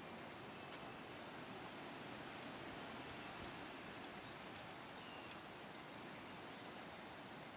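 Steady, faint outdoor background hiss with a few brief, high, faint bird chirps scattered through it.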